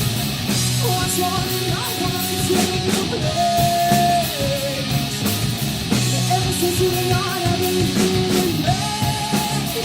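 Rock band playing live: electric guitar over bass and drums, with long held notes that slide slightly in pitch.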